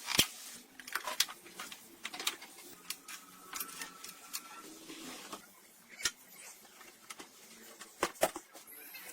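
Irregular sharp clinks and knocks of metal tools and engine parts being handled, with a brief faint whine about three seconds in.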